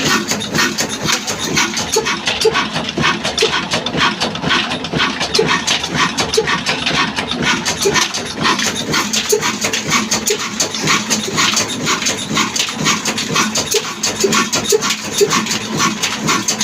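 Locally built Ruston Hornsby–type stationary diesel engine running at slow speed, with a rapid, even clatter of sharp mechanical knocks.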